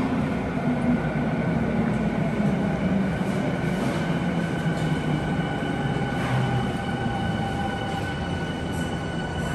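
Tokyu commuter electric train running into an underground station platform: a steady low rumble of wheels and running gear, with thin steady high-pitched tones over it.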